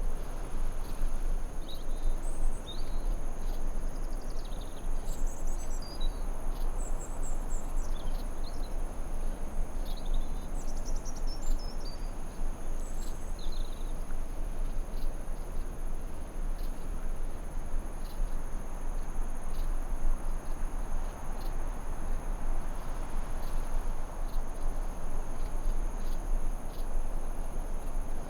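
Forest ambience: a steady high insect drone over an even hiss, with short bird chirps and whistles during the first half.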